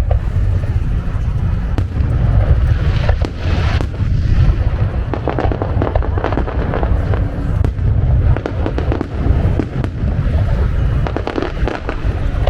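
Fireworks display: a continuous run of low booms from aerial shells bursting, with thick stretches of crackling about three seconds in, in the middle and near the end.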